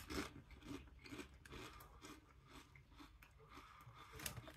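A person chewing a potato crisp with the mouth closed, giving faint, irregular crunching.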